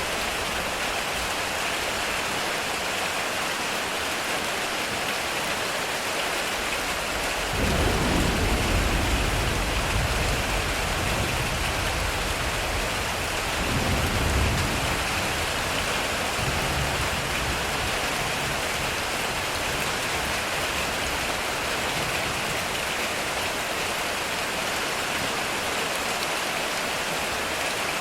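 Heavy rain on a metal roof, a steady dense hiss. About a quarter of the way in, a low rumble of thunder rolls in, swells again about halfway, then dies away.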